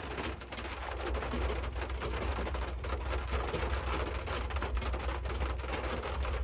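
Rain drumming on a car roof, heard from inside the cabin: a dense, irregular patter over a steady low rumble.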